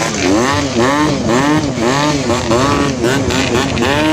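Yamaha RX-King single-cylinder two-stroke exhaust revved in quick repeated throttle blips, its pitch rising and falling about twice a second.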